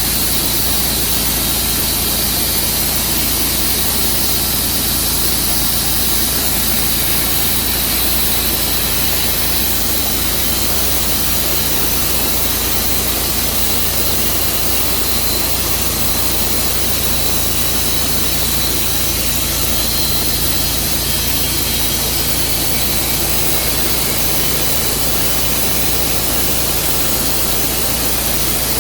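Sawmill engine running steadily at a constant speed, with a strong hiss over a low hum.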